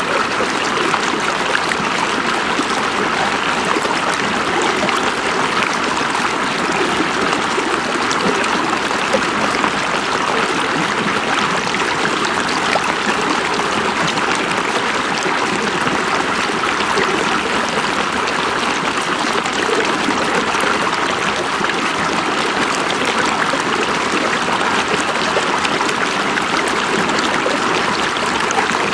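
River water flowing steadily over rocks, a constant rushing and trickling.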